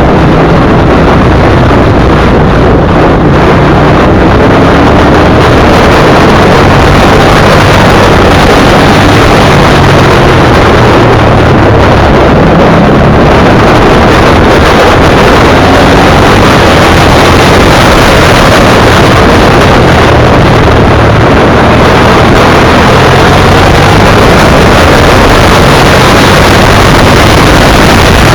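V-twin sport motorcycle engine running at road speed, heard under heavy wind buffeting on the microphone, very loud throughout, with its pitch rising a few times as it accelerates.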